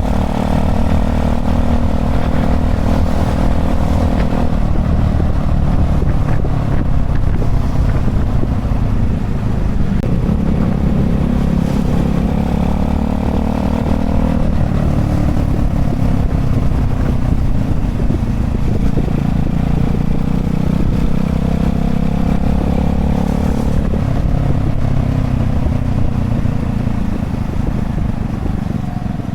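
Honda Chaly minibike's small single-cylinder engine running under way. Its note climbs in pitch and drops back several times, about every five seconds, as it accelerates and shifts, over a steady low rumble.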